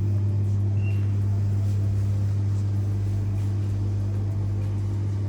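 A steady low hum, one deep tone with a few overtones above it, unchanging in pitch and level.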